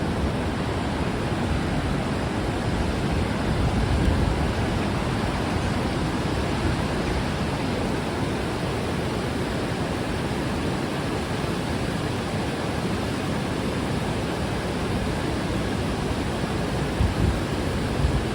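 Steady rush of fast-flowing river water tumbling over rocks, an even, unbroken sound.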